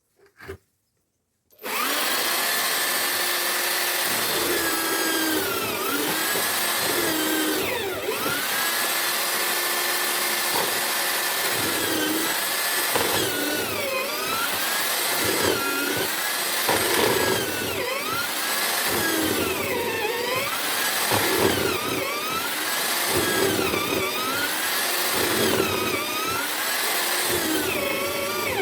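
Homemade drill-powered mortiser switched on about a second and a half in, after a couple of clicks, then running steadily. Its motor pitch dips and recovers about every two seconds as the bit is plunged into the wood and lifted.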